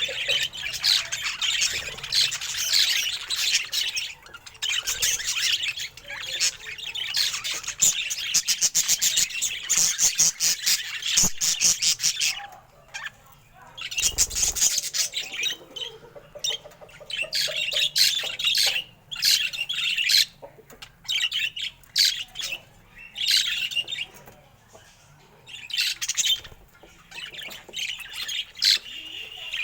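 Budgerigar chattering and warbling in quick, scratchy high notes, running on for about the first twelve seconds, then coming in shorter bursts with pauses between.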